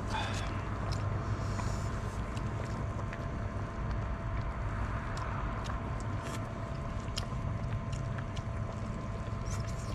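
Wind rumbling on the microphone, with sharp crackles and pops from a wood fire scattered throughout.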